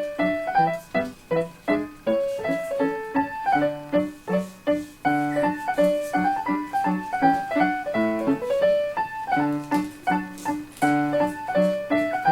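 Background piano music: a quick run of struck notes in an even rhythm.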